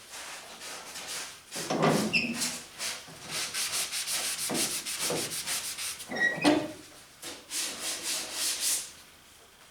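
Sandpaper rubbed over the car's body in quick back-and-forth strokes, several a second, with a few heavier strokes among them.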